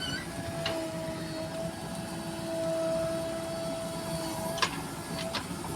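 Small electric motor whining steadily at one pitch, with a few sharp clicks; the loudest click comes right at the end.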